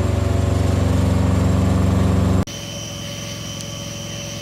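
Semi truck's diesel engine idling steadily, cut off abruptly a little over halfway through by a quieter steady hum with a thin high whine.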